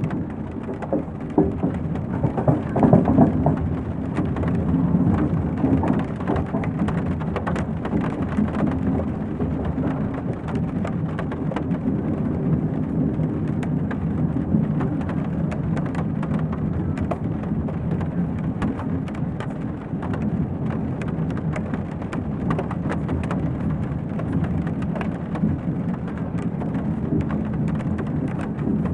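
Steady low rumble of a train running, with light rain ticking on the carriage window and faint, indistinct voices murmuring now and then.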